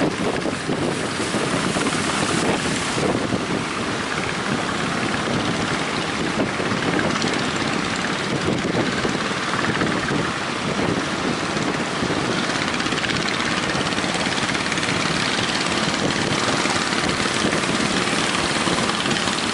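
Strong wind blowing hard on the microphone, with waves breaking on the shore, as a steady, even rush of noise.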